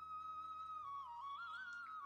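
Background music: a flute-like melody holding a long note, then moving up and down in small steps, over a soft low drone.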